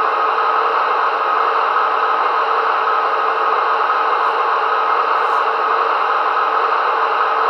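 Märklin VT 11.5 model diesel train running, its sound decoder playing the diesel engine sound through the small speakers in the power cars: a steady, hissy drone.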